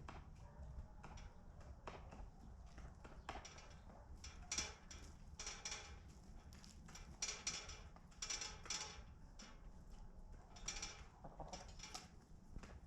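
Chickens moving about in a coop: irregular pecking taps and scratching rustles over a low hum.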